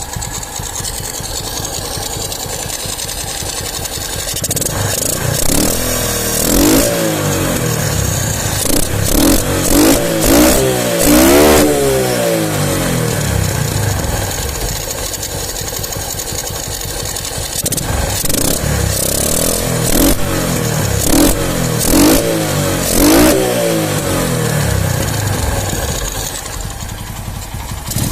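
Motorcycle engine running at idle and being blipped on the throttle again and again, each rev rising and dropping straight back. There are two runs of blips, one from about five to twelve seconds in and another from about eighteen to twenty-four seconds in, with steady idle between them.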